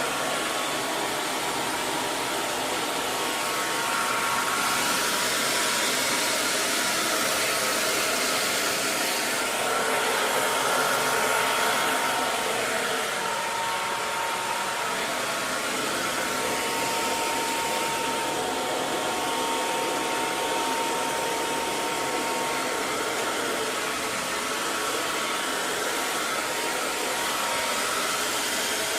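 Hair dryer running continuously: a steady rush of air with a faint whine near 1 kHz, swelling a little in loudness now and then.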